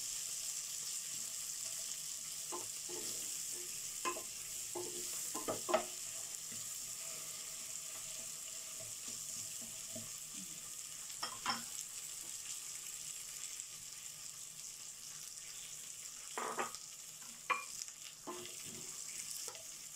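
Carrot slices, garlic and dried shrimp stir-frying in hot oil, a steady sizzle. A wooden spatula scrapes and knocks against the pan in a few short clusters.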